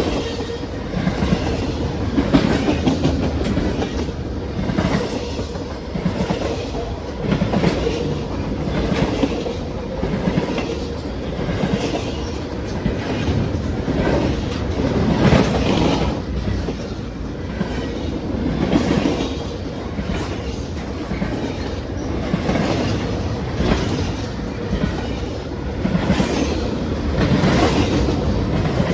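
A Norfolk Southern freight train's cars rolling past, with steady rumbling and wheels clacking over rail joints every second or two.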